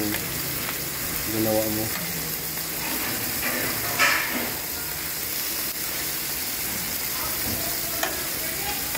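Chunks of raw white fish sizzling in hot oil in a nonstick frying pan, a steady hiss. About four seconds in there is a louder flare of sizzle, and a couple of small ticks come near the end, as more pieces are laid into the oil.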